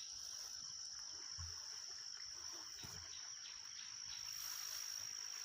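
Insects trilling in one steady, high-pitched drone that does not break, with a couple of soft, low thumps beneath it.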